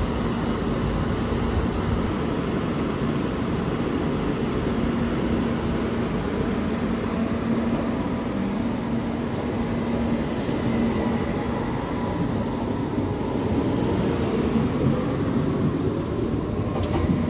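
Electric trains moving through a railway yard: a steady rumble with a constant low hum running under it.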